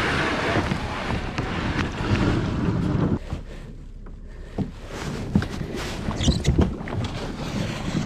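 Outdoor noise from a kayak on the water: wind on the microphone, louder for the first three seconds, then quieter with a few short knocks scattered through the second half.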